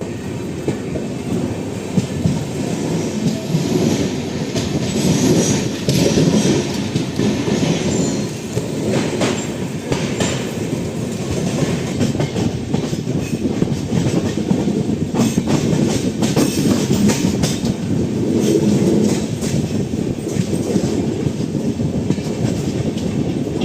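Passenger train coach running at speed: a steady rumble of wheels on the rails, with irregular clacks as the wheels pass over rail joints.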